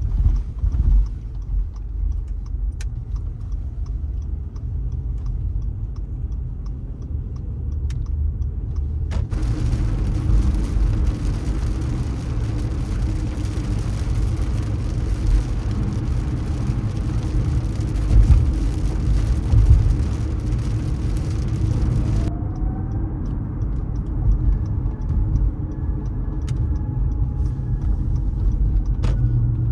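Car driving in city traffic: a steady low rumble of engine and tyres on the road. About nine seconds in a steady hiss comes in abruptly and cuts off just as abruptly after about twenty-two seconds, and faint regular ticking sits in the quieter stretches either side.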